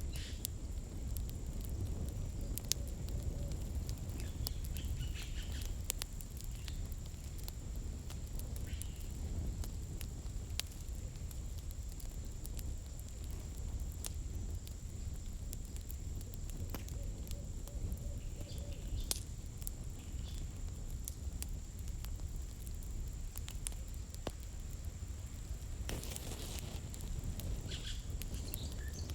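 Campfire burning: a steady low rumble with scattered sharp crackles and pops from the firewood, a denser flurry of crackling near the end. A faint, steady high tone runs underneath.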